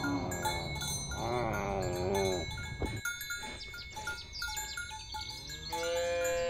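Cattle mooing: one call with a wavering pitch a little over a second in, lasting about a second, and another starting near the end and held steady. Short high chiming notes repeat in the background.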